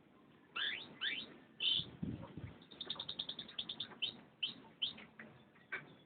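Domestic canary singing: short rising chirps, a fast trill of about ten notes a second in the middle, then more single rising notes near the end.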